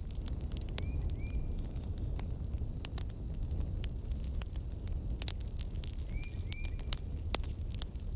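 Wood fire in a fireplace crackling, with frequent sharp pops over a steady low rumble. Two pairs of short high chirps sound faintly, one pair about a second in and another about six seconds in.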